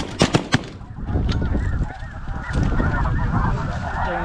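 A quick volley of about four shotgun blasts in the first half second, then the dense, continuous honking din of a huge flock of snow geese calling overhead.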